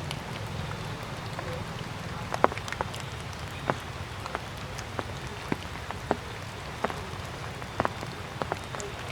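Water drops dripping onto leaves and the ground after rain, sharp irregular ticks about one or two a second, over a low steady rumble.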